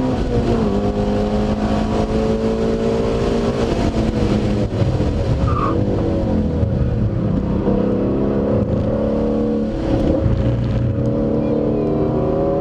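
Car engine heard from inside the cabin at speed on a racetrack. The revs hold high at first, drop and waver as the car slows from about 99 to 60 mph for a corner, stay lower through the turn, and climb again near the end as it accelerates.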